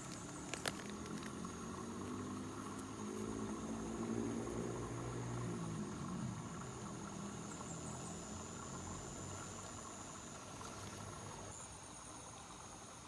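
Insects, likely crickets, chirring in one steady high trill that stops about seven seconds in. A low rumble swells and fades in the middle, and a couple of sharp clicks come under a second in.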